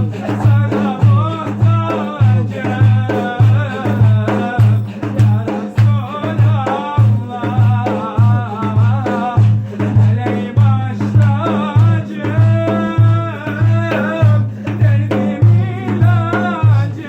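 Turkish devotional ilahi: a melismatic voice sings over a steady, deep drum beat.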